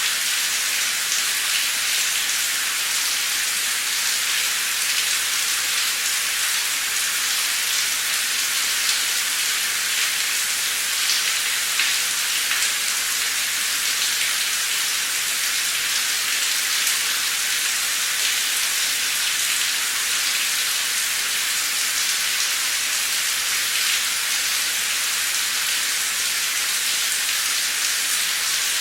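Heavy torrential rain pouring down: a steady, dense hiss, high and thin with little low end, flecked with scattered drop ticks.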